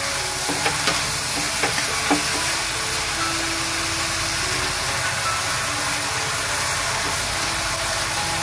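Bok choy and stir-fried vegetables sizzling in a hot wok, a steady hiss as they are tossed with wooden chopsticks, with a few light clicks of the chopsticks in the first two seconds.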